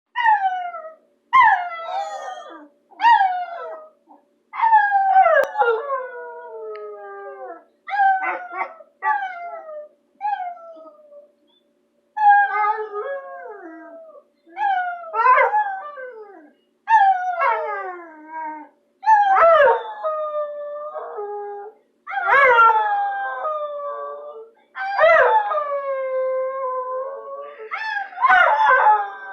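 Bulldog howling: a string of pitched calls every one to three seconds, each sliding down in pitch, the later ones drawn out longer and ending on a held note.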